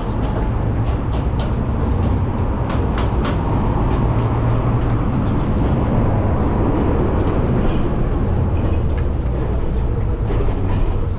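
Steady rush of wind and road traffic heard from an electric bicycle moving at speed alongside city traffic, with a few faint clicks about three seconds in.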